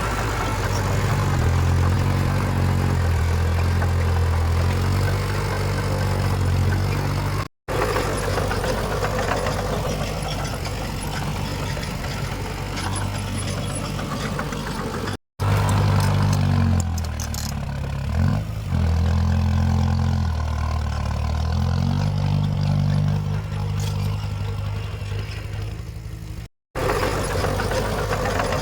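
Heavy diesel engine of earthmoving machinery working, its engine note rising and falling repeatedly under load. The sound cuts out abruptly three times, for a moment each.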